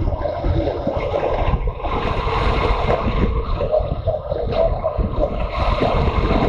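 Wind buffeting the microphone of a moving motorcycle, a steady rough rumble with the bike's engine running underneath.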